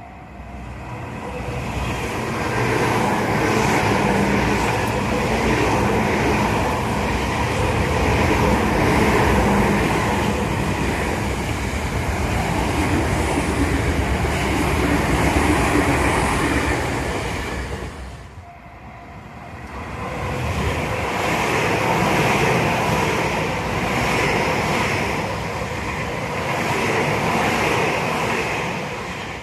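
Tobu Tojo Line electric trains passing at speed, a steady rumble and rush of wheels on rail. The sound swells and fades twice: one pass fills the first two-thirds, then it drops off sharply and a second pass builds and fades near the end.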